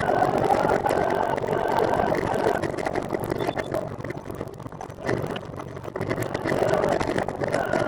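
Rushing road and traffic noise that rises and falls, easing off in the middle and building again near the end.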